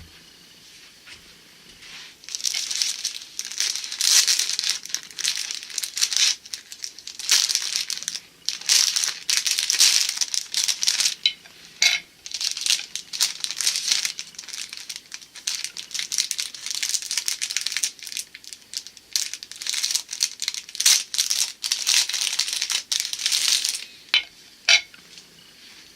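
Plastic packaging crinkling and rustling in bursts as it is handled and opened, starting about two seconds in and stopping near the end, with a few sharp clicks in between.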